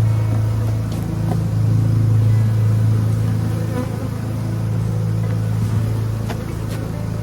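Honeybees buzzing in numbers around an opened hive: a steady, loud low hum with wavering higher buzzing tones over it, and a few faint clicks.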